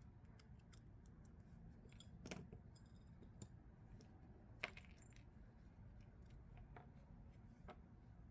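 Faint, scattered small metallic clicks and clinks of a folding knife's parts and small tools being handled during disassembly. Two louder clinks stand out, about two and a half seconds apart, over a low steady hum.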